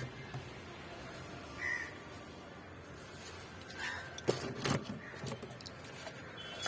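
A crow cawing briefly in the background. About four seconds in there are two short rustling knocks, typical of potting soil and cocopeat being handled.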